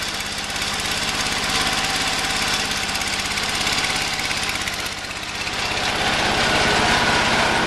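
Kohler K301 12 hp single-cylinder engine of a Ford LGT120 garden tractor running with a steady, rapid firing beat. It dips briefly about five seconds in, then comes back louder.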